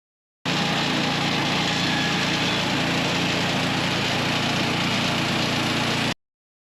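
Small gasoline engine of a portable sawmill running steadily, as when sawing a log. It starts suddenly about half a second in and cuts off suddenly near the end.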